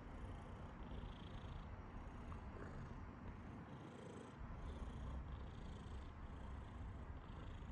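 Domestic cat purring steadily, a low rumble that swells and eases with each breath, about once a second.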